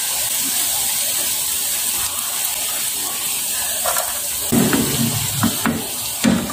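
Tempe cubes sizzling in hot frying oil in a pan, a steady crackling hiss, while a spatula lifts the fried pieces out.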